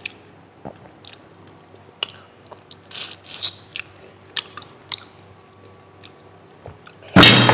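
Close-up eating sounds of a man chewing fried noodles and prawns: scattered wet mouth smacks and small clicks. Near the end a sudden loud sound cuts in.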